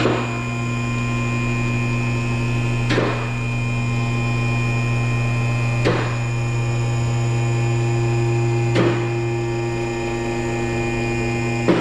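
Car lift's electric hydraulic pump motor running with a steady hum as the car is raised. A sharp click comes about every three seconds, typical of the lift's safety locks catching as it rises.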